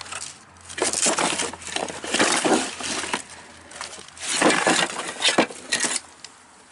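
Loose metal parts clinking and clattering as they are rummaged through and moved about, in two long bouts of rattling, one starting about a second in and another about four seconds in.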